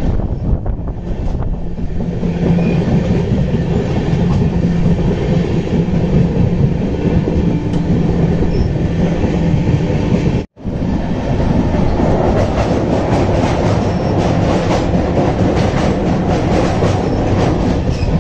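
Express passenger train running at speed, a steady heavy rumble with the wheels clattering over the rail joints, the clatter denser in the second half. The sound drops out for an instant about halfway through.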